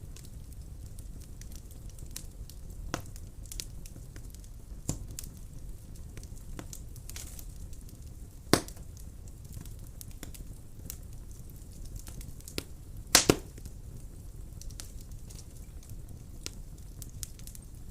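Wood fire burning in a fireplace: a low steady rumble of the flames with scattered crackles and pops, the loudest a sharp pop about eight and a half seconds in and a double pop about thirteen seconds in.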